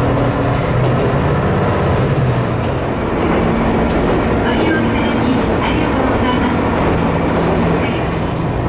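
Inside a Minamiaso Railway MT-3000 diesel railcar under way: the steady hum of its diesel engine under a continuous rumble of wheels on rail, with a few light clicks from the rail joints.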